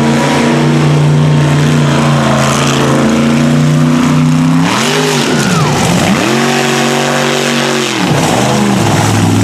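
Mega truck's supercharged engine running hard. Its pitch dips and climbs back about five seconds in, holds high revs, then drops about eight seconds in.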